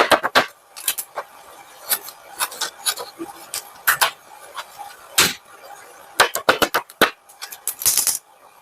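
Hands handling and creasing paper: a series of sharp taps and crisp clicks at irregular intervals, with a longer crinkling rustle near the end.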